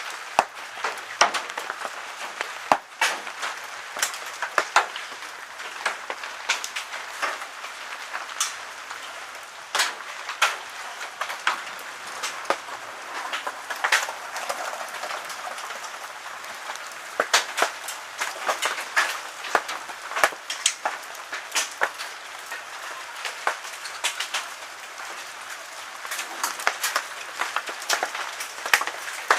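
Hailstones striking hard surfaces: a steady dense patter with many sharp, irregular cracks of individual stones.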